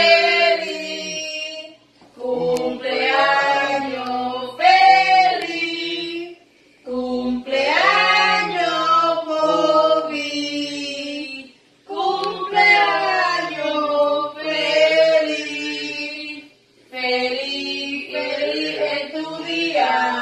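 People singing a birthday song unaccompanied, in four long sung lines with short breaks between them.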